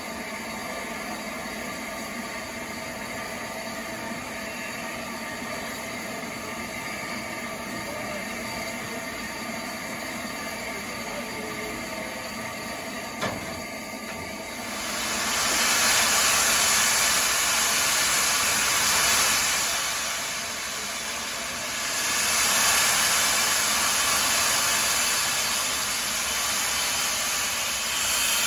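Steam locomotive standing with a low steady background, then a loud hiss of escaping steam starting about halfway through, easing for a couple of seconds and coming back.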